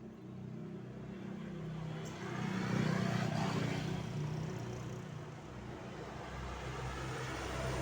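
A motor vehicle passing by: engine and road noise swell to their loudest about three seconds in, then ease off, while a low engine rumble builds again near the end.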